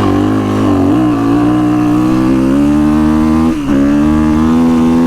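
Kawasaki KX450X's 449 cc single-cylinder four-stroke engine at full throttle, the dirt bike accelerating hard from a standing start. The engine's pitch climbs and drops briefly at an upshift about a second in and again about three and a half seconds in.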